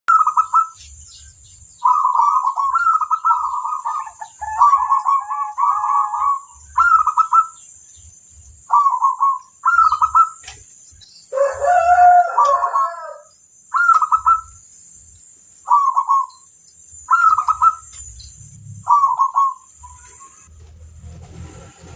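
Zebra dove (perkutut) singing, repeating its short trilled cooing phrase about a dozen times with pauses between. A rooster crows once about eleven seconds in, lower and longer than the dove's phrases.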